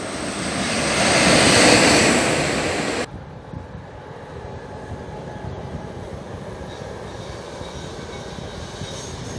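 Electric train passing close, its rushing noise building to a peak, then cut off abruptly about three seconds in. It is followed by a red-and-white Swiss passenger train running past at a distance, a steady rumble with a faint high wheel squeal near the end.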